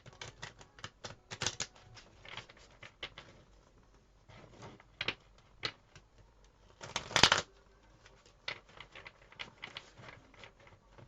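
Tarot cards being shuffled and handled: a run of irregular light clicks, taps and riffles, with one louder, longer burst of card noise about seven seconds in.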